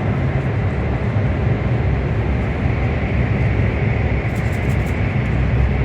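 Steady low rumble and rush of a CRH1A-A high-speed train running at about 160 km/h, heard inside the passenger cabin, with a few faint ticks about four and a half seconds in.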